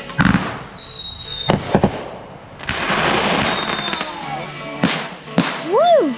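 Backyard consumer fireworks going off: several sharp bangs, a short high whistle about a second in, and a burst of crackling in the middle.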